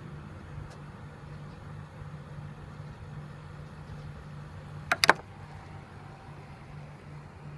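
2011 Kawasaki Ninja ZX-6R's inline-four engine idling steadily through an M4 GP slip-on exhaust, a low, even hum. Three sharp clicks in quick succession about five seconds in.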